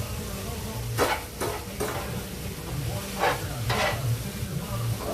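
Vegetable stir-fry sizzling in a frying pan as it is stirred, with a handful of short scraping strokes of the utensil against the pan, a few about a second in and two more a little past three seconds.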